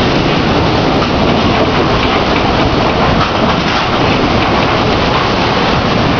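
Heavy rain pouring in a severe windstorm, a loud steady rush without a break.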